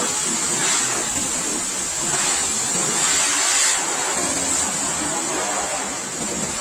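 High-pressure washer jet spraying water onto a motorcycle: a steady, loud hiss that swells a few times as the spray moves.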